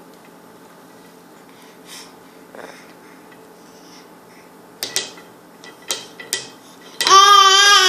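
A baby crying: a quiet pause broken by a few short, sharp sounds, then a loud, drawn-out wail starting about seven seconds in.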